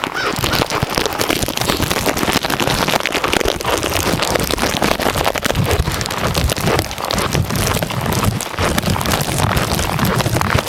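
Gusty wind blowing across the microphone: a steady, crackly hiss with low rumbles that rise and fall.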